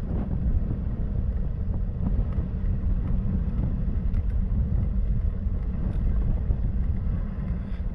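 Steady low rumble of wind buffeting the microphone while riding along, mixed with road noise from the moving vehicle.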